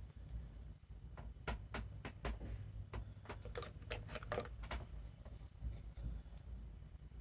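A string of light, irregular clicks and taps, bunched together in the middle, over a faint low hum.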